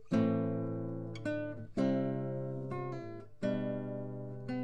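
Background music: an acoustic guitar strumming chords, three struck chords each left to ring and fade.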